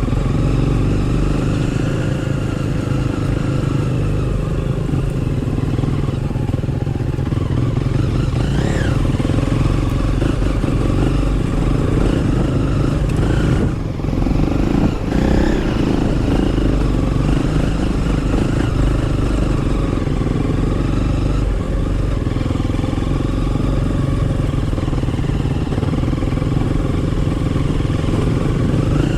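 Motorcycle engine running steadily while being ridden, with a brief drop in level about halfway through.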